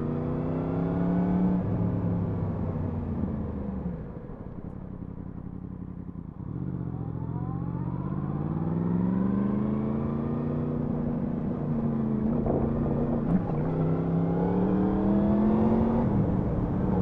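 Yamaha MT-10 SP's crossplane inline-four engine on the move: the revs fall away and the engine runs quieter for a few seconds, then climb steadily as it accelerates again. Two brief dips and jumps in the second half mark gear changes.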